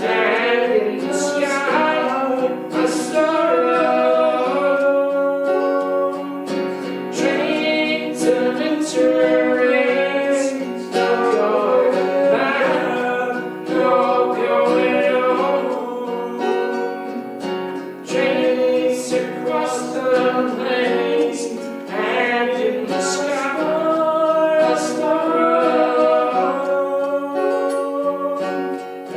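Two singers performing a slow song together, accompanied by guitar.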